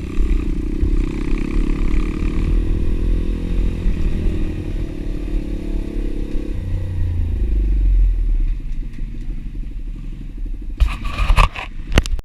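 Pit bike's single-cylinder engine running, its low sound thinning about two-thirds of the way through. A cluster of sharp knocks and clatter comes near the end.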